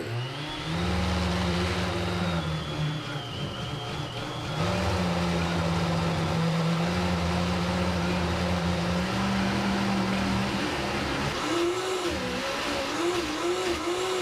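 Vitamix S55 personal blender's motor ramping up to its highest speed and then running steadily as it purees a thick cashew dip. Near the end its pitch starts to waver up and down as the load shifts.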